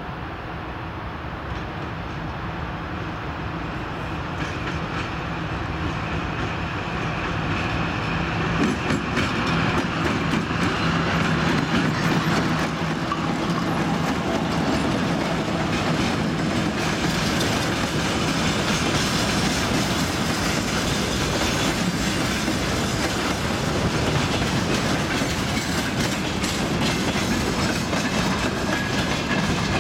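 Twin-section 2TE116 diesel freight locomotive approaching and passing with a steady engine hum that grows louder over the first several seconds. Then a long freight train of boxcars and hopper wagons rolls by, its wheels clicking over the rail joints.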